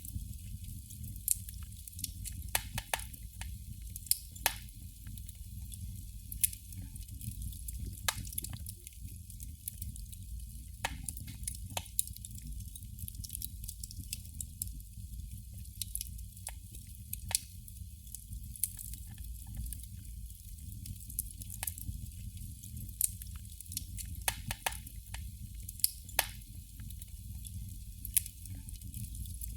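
Candle flame crackling: irregular sharp pops and small crackles, a dozen or so standing out, over a steady low hum.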